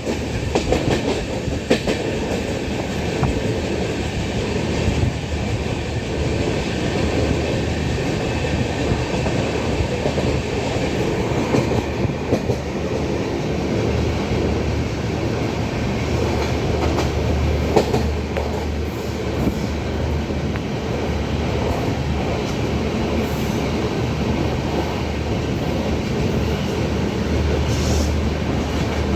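Passenger train running along the track, heard from inside a coach: a steady rumble of wheels on rail with occasional clicks.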